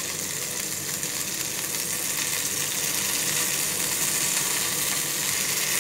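Mutton rolls sizzling steadily in shallow oil in a frying pan as they are turned over to fry the second side; the sizzle gets a little louder after about two seconds.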